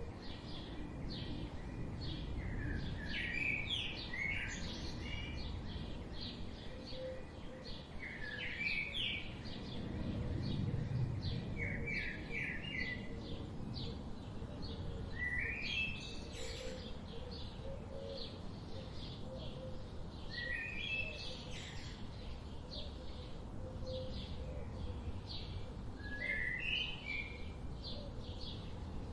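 Wild birds singing: short song phrases recur every few seconds among many quick high chirps, over a steady low background rumble.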